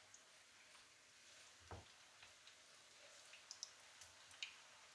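Eggplant slices frying in oil in a nonstick pan, with faint, scattered crackles and pops of spitting oil. One soft knock comes a little under two seconds in as raw slices are laid into the pan.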